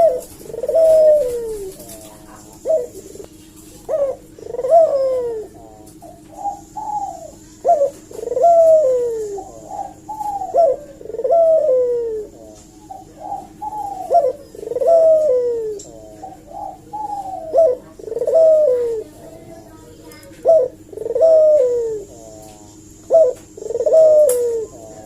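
Puter (Barbary dove) cooing over and over without a break. Each coo is a short clipped note followed by a longer note that rises and then falls, repeating every one to two seconds over a steady low hum.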